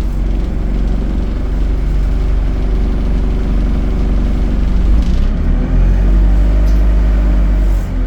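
ADL Enviro 200 bus's diesel engine and Allison automatic driveline running with a steady low rumble, growing louder and deeper about five seconds in as the bus takes more throttle.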